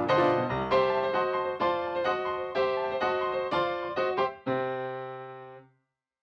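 Background piano music: notes struck in a steady rhythm, ending on a held chord that fades out to silence a little before the end.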